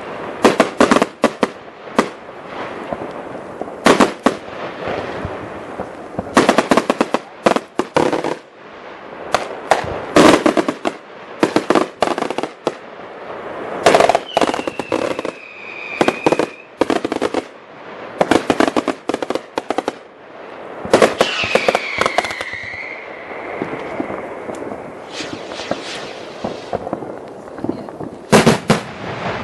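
New Year's midnight fireworks: a constant, irregular barrage of sharp bangs and crackling from firecrackers and rockets. Twice, about halfway and about three-quarters of the way through, a whistling firework sounds: a whistle that drops in pitch and then holds for about two seconds.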